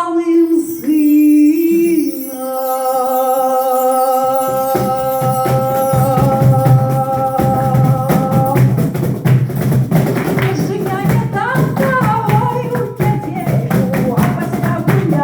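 Live song: a voice holds one long note, then a fast, driving rhythmic accompaniment comes in about four and a half seconds in, and the melody moves on over it.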